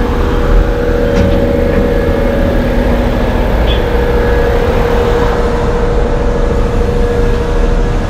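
Heavy-truck diesel engine running steadily, a constant hum with a held tone over the top.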